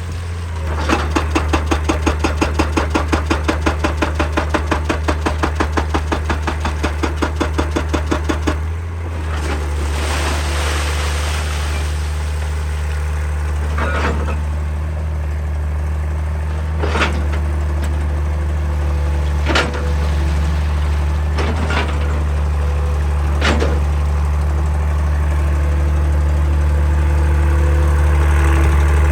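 Excavator-mounted hydraulic breaker hammer pounding rock in a fast, even run of about six blows a second, stopping after about eight seconds. The excavator's diesel engine keeps running steadily, with a few single sharp knocks of steel on rock after the hammering stops.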